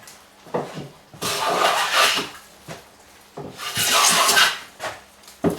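Hand plane cutting along a door's edge to bevel it: two long, hissing shaving strokes about two seconds apart, with light knocks as the plane is set back between strokes.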